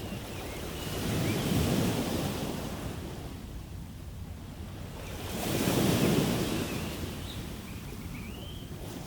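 Ocean waves breaking and washing in twice, about four seconds apart, each surge swelling and fading, with a steady hiss of surf in between.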